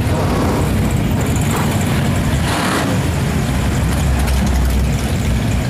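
Car engines running low and heavy as parade cars drive slowly past, with a brief hiss of noise about two and a half seconds in and a stronger low throb near the end.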